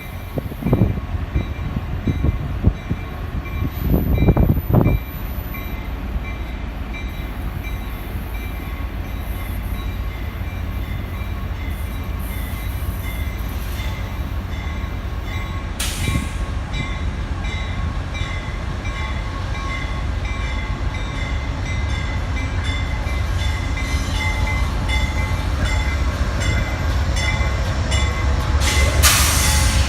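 Amtrak Coast Starlight passenger train pulling into a station: a low diesel locomotive rumble that grows louder as it comes in, with a regularly repeating high ringing, likely the locomotive's bell, and a couple of short hissing blasts.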